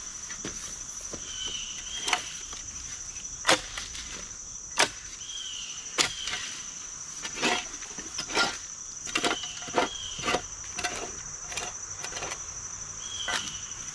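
Steady high-pitched drone of insects such as crickets, with irregular sharp knocks and snaps, loudest from about three to eleven seconds in, and a few short high chirps.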